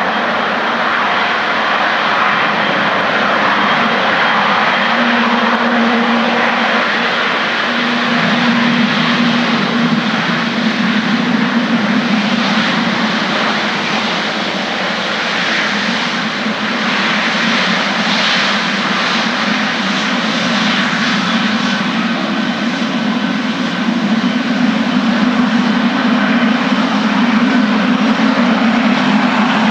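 Boeing 777's GE90 turbofan engines at high thrust for takeoff: a loud, continuous jet noise. A low steady hum in it strengthens about 8 seconds in.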